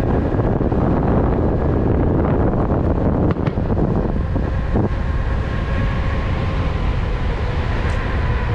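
Wind buffeting the microphone of a rider moving at speed on an electric unicycle: a loud, steady low rush, with faint steady tones underneath.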